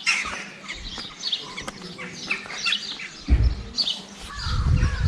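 Small birds chirping and twittering, many short calls one after another. Irregular bursts of low rumble come in from about three seconds in.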